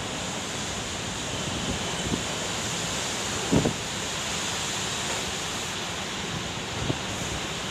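Heavy rainstorm: a steady loud hiss of rain pouring onto a flooded terrace floor, with gusting wind. A short low thump about halfway through and a fainter one near the end.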